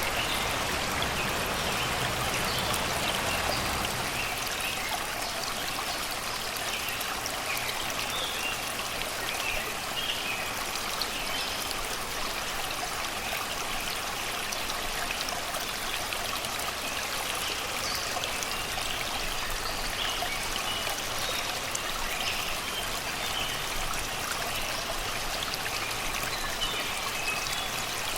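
Shallow river water flowing and babbling steadily over rocks and stones, with birds chirping intermittently in the background.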